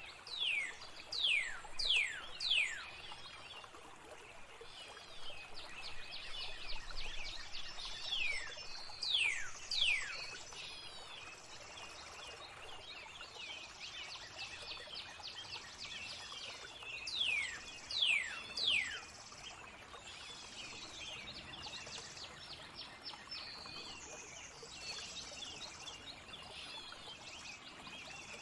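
Songbird chorus over a steady trickle of flowing water. Busy high chirping and twittering runs throughout, and three times a bird gives a run of three or four sharp whistles sliding steeply down in pitch, the loudest sounds here.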